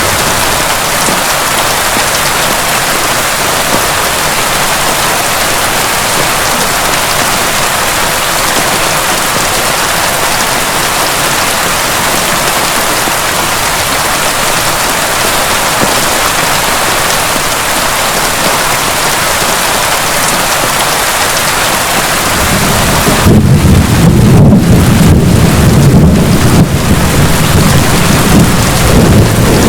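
Heavy rain falling steadily. About three-quarters of the way through, a long, deep rumble of thunder rolls in and grows louder.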